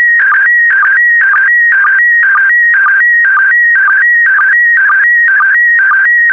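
Slow-scan TV picture signal in PD120 mode: a high electronic tone that warbles in a pattern repeating about twice a second, each cycle with a short, lower sync blip. It carries the image's scan lines to a decoder.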